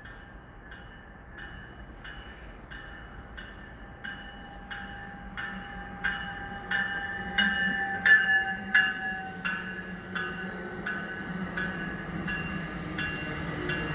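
Train approaching and passing with a bell ringing steadily, about one and a half strikes a second; the rumble of the train builds and is loudest about eight seconds in, then eases off while the bell keeps ringing.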